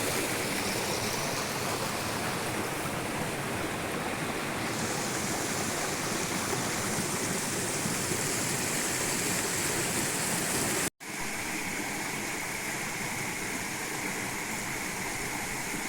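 Steady rush of water from the Arapongas waterfall and its stream. It cuts out for an instant about eleven seconds in, then carries on.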